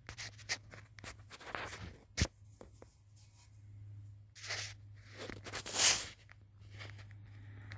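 Light handling noises: scattered clicks, a sharp knock about two seconds in and two brief rubbing scrapes later on, over a low steady hum.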